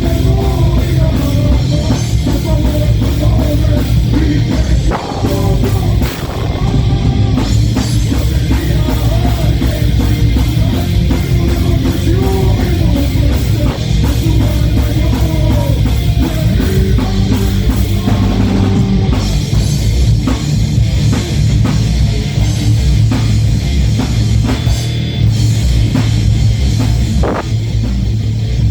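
Live heavy metal band playing: distorted electric guitars over a pounding drum kit and bass, a sung vocal line weaving through, with brief drop-outs about five and six seconds in.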